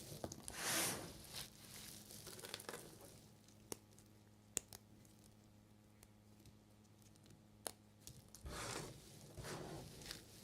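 Knife cutting through bars of soap: a few scraping, crumbling swishes, the loudest near the start and two more near the end, with a few sharp clicks in between.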